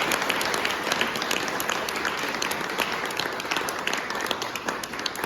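Audience applauding, the many claps slowly thinning out toward the end.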